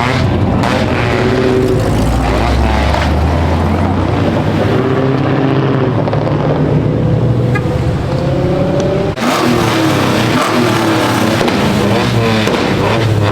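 Car engines running loud, with one engine's pitch rising over several seconds as it revs, then dropping off abruptly about nine seconds in.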